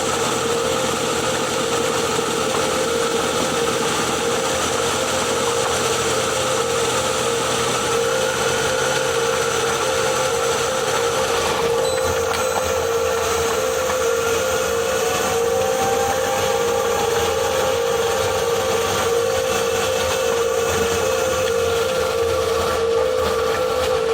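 Ford Kuga PHEV's HF45 e-CVT transmission heard up close while driving slowly: a steady whine held at one pitch, with fainter tones drifting up and down over the running noise. This is the weird rotational noise that appeared after a flywheel change, which the owner thinks may come from motor-generator 1.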